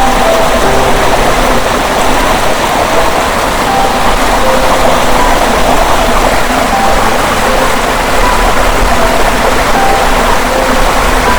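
Waterfall rushing: a loud, steady, even rush of falling water, with a faint melody of short soft notes underneath.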